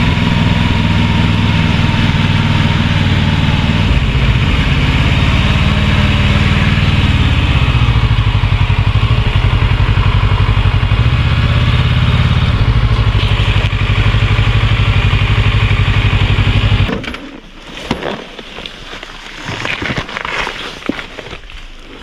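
Kawasaki Versys 650 parallel-twin engine running, its revs dropping over a few seconds to a steady idle. It is switched off abruptly about seventeen seconds in, leaving scattered light clicks and rustling.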